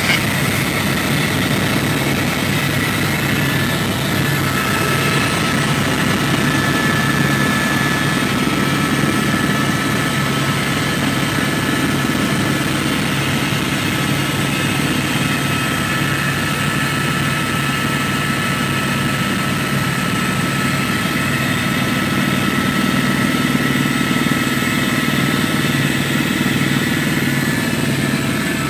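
Helicopter engine and rotors running steadily, a constant dense noise with a low hum and a thin steady whine above it.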